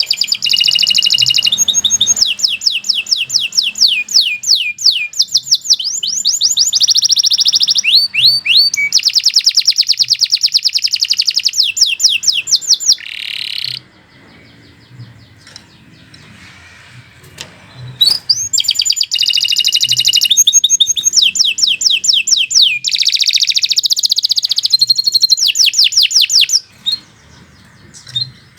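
Domestic canary singing a long song of rapid rolling trills, each run of repeated notes changing to the next. It sings two long bouts with a pause of a few seconds in the middle.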